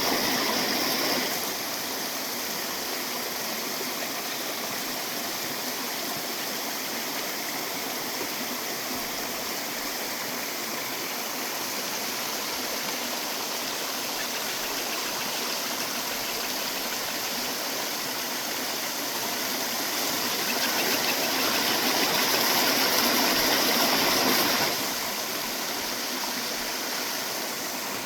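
Mountain stream running over rocks: a steady rush of water, louder for about the first second and again for a few seconds about two-thirds of the way through.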